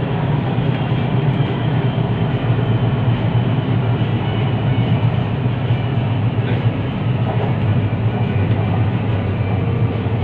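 MRT metro train running at speed between stations, heard from inside the carriage: a steady low rumble of wheels on track.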